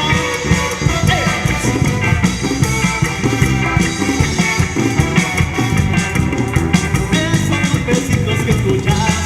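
Upbeat band music with a steady drum beat.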